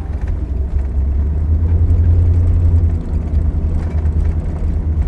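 Camper van driving, heard from inside the cab: a steady low rumble of engine and road noise, a little louder for about a second and a half partway through, with faint rattles.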